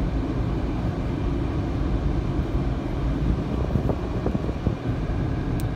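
Car idling at a standstill, heard from inside the cabin: a steady low rumble, with a single faint click near the end.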